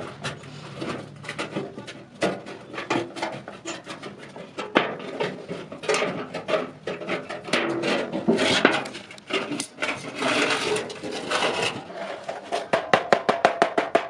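Iron being worked by hand: irregular knocks and clanks with a couple of longer scraping passes, then near the end a fast, even run of hammer blows on ringing metal.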